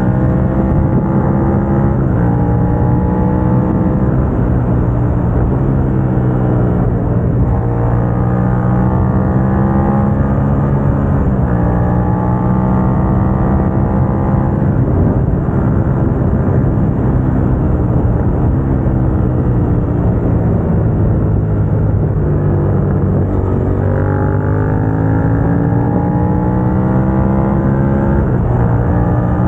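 Suzuki SV650's 645 cc V-twin engine through a Dominator GP aftermarket exhaust, heard from the bike while riding. The revs climb and drop back several times with throttle and gear changes, with stretches of steadier cruising between.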